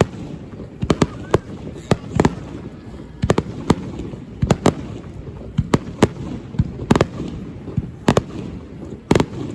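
Aerial fireworks shells bursting in a rapid, irregular barrage of sharp bangs, about two a second, with people talking in the background.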